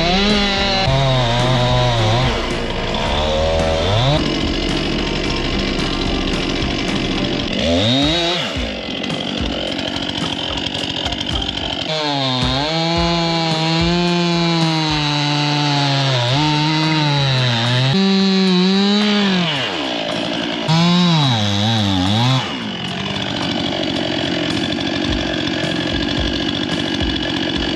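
Stihl MS261 two-stroke chainsaw cutting up large pieces of a felled tree. The engine speed rises and falls again and again as the saw revs and works through the cuts.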